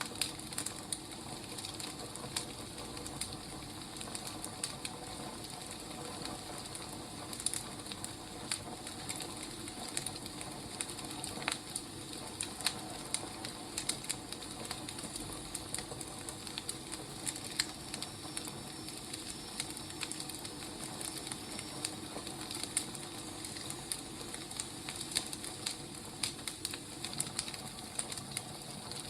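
Wood fire crackling: a steady hiss of burning logs broken by frequent, irregular sharp pops and snaps.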